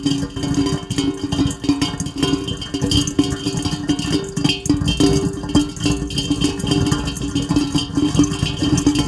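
Rain falling steadily as a dense patter of many small drops, with a low steady tone underneath that shifts between two pitches every second or so.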